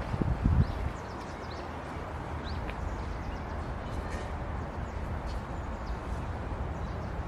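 Steady outdoor hum of distant city traffic with faint, scattered bird chirps. A brief low rumble of wind on the microphone comes about half a second in.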